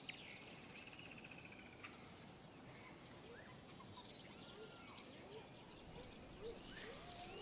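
Faint birdsong: one bird repeats a short high call about once a second, with other birds chirping over a quiet outdoor background.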